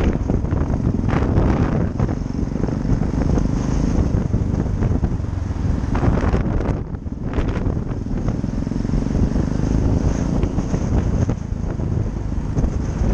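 Yamaha XT660X's 660 cc single-cylinder four-stroke engine running under way in traffic, with wind buffeting the microphone. It turns briefly quieter about halfway through.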